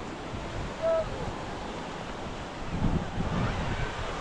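Ocean surf washing on the beach with wind buffeting the microphone. About a second in comes a short high-pitched call.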